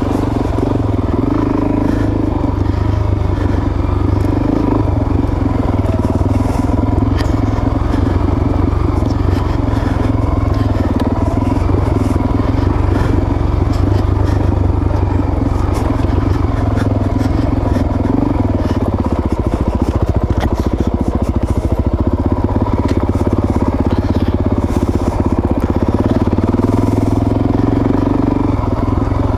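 Suzuki DRZ400S's single-cylinder four-stroke engine running steadily while the dual-sport motorcycle is ridden on a dirt trail, its pitch shifting a little with the throttle.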